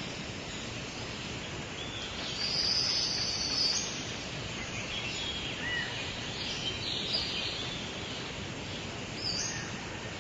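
Outdoor nature ambience: a steady hiss with birds calling on and off. A high, drawn-out call about two seconds in lasts over a second, with more calls around the middle and a short one near the end.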